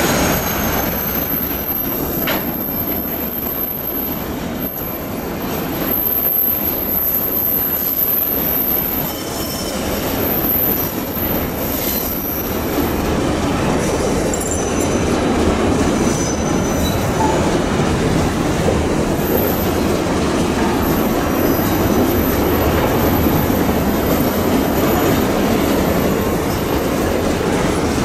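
Long empty Babaranjang coal train rolling past: the steady rumble and clatter of the wagons' wheels on the rails, with an intermittent high-pitched squeal from the wheels on the curve.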